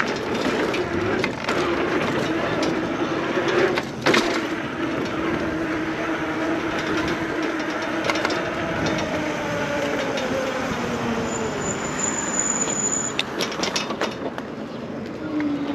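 Electric bike being ridden over a dirt trail: steady wind and tyre noise with a humming tone that falls in pitch about halfway through, and a few sharp knocks and rattles from the bike over bumps.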